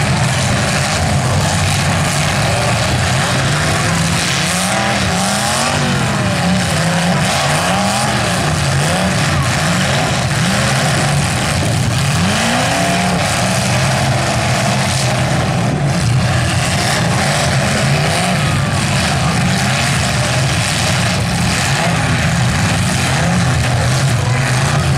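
Engines of several full-size demolition derby cars revving up and down together, loud and continuous. Their pitch rises and falls every second or so.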